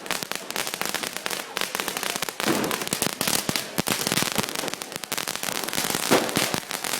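Firecrackers (bangers) going off in a rapid, continuous crackle of sharp reports, with a louder bang about six seconds in.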